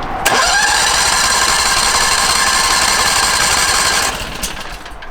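Pressure washer spraying water at high pressure: a loud, steady hissing whine that starts abruptly and cuts off after about four seconds.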